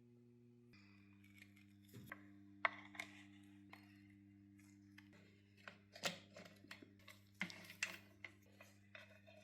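Quiet sustained background music chords, with irregular light clicks and taps of small carburetor parts being handled, more of them in the second half.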